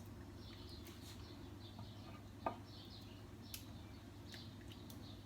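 Faint chirping of small birds, short chirps repeating throughout, with a single sharp click about two and a half seconds in over a low steady hum.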